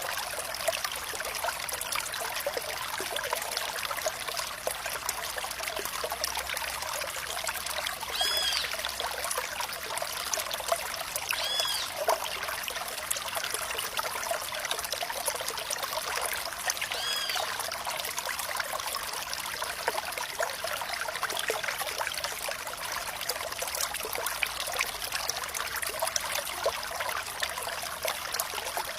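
Flowing water trickling and splashing steadily, a dense patter of small splashes. Three brief high-pitched chirps sound over it at spaced intervals.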